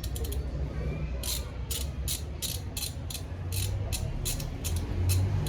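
Ratchet wrench clicking in a steady run of about three clicks a second while turning a bolt on the scooter during an oil change, over a low rumble that grows near the end.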